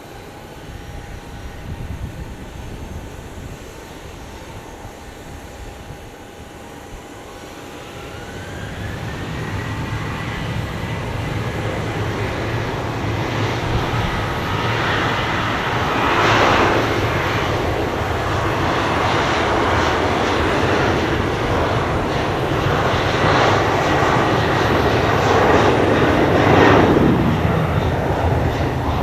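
Jet airliner engines spooling up: a whine rises about eight seconds in and then holds steady while the engine noise grows loud and stays loud, swelling twice in the second half.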